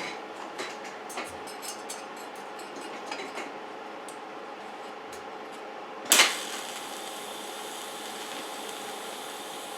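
Light metal clinks and taps from metal parts and tools being handled, a string of small clicks in the first few seconds, then one louder knock about six seconds in, over a steady background hum.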